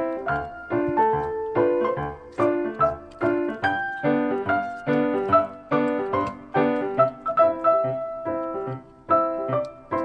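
Background piano music: a light melody of plucked-sounding notes with chords at a steady pace.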